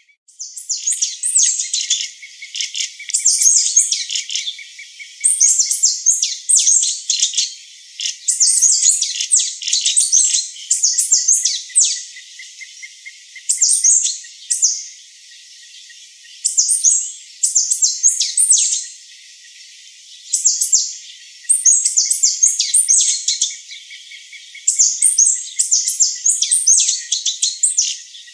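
Small songbird giving high, rapid chirping phrases in bursts every second or two, over a faint, even insect trill.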